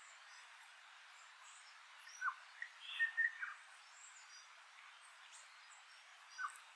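Wild birds calling: a few short, sharp calls about two seconds in, a louder cluster of notes around three seconds, and one more near the end. Faint high chirps from other birds are scattered over a steady hiss.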